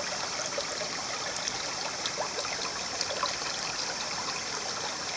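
Shallow river water running and trickling, a steady rush with many small splashes and gurgles.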